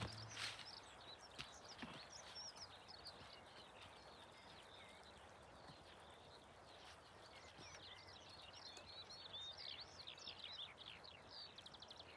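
Faint birdsong: many short chirps and trills from small songbirds, busier in the second half and ending in a quick rattling trill, over a quiet outdoor hiss.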